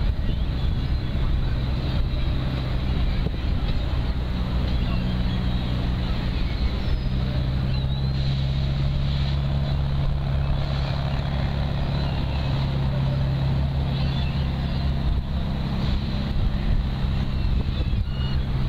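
Engine running at a steady drone, with wind noise on the microphone.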